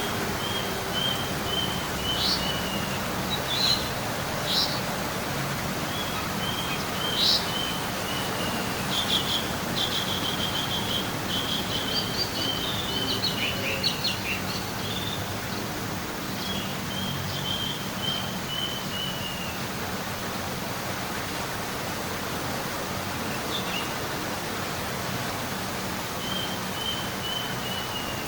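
Birdsong: a bird repeats a phrase of quick, slightly falling chirped notes every several seconds, with scattered sharp chirps and a busier stretch of calls in the middle, over a steady background hiss.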